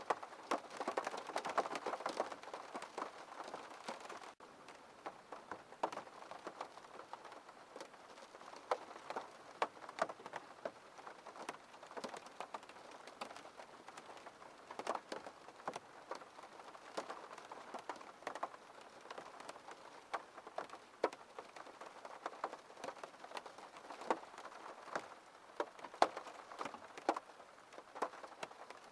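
Rain pattering on a window pane: a steady hiss of rain with many separate drops ticking on the glass. It is heavier for the first few seconds, breaks off for an instant about four seconds in, then carries on a little lighter, with distinct drop taps.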